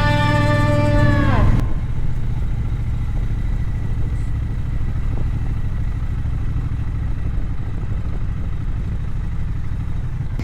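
A held musical chord slides sharply down in pitch and cuts off about a second and a half in. After that comes the steady low rumble of a motorcycle running.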